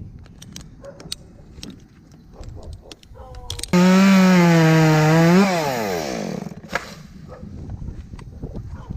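Chainsaw revved at full throttle for a couple of seconds, starting abruptly a little under four seconds in, then the throttle is let off and the engine winds down in pitch toward idle. Light clicks and rustles come before it.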